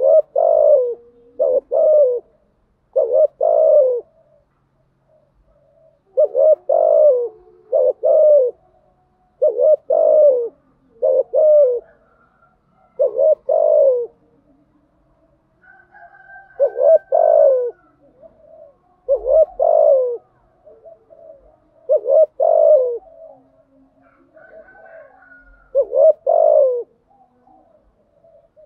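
Spotted dove cooing: low, husky coo phrases, often in pairs, repeated every second or two with short gaps, the calls of a lure recording meant to draw or rouse other doves.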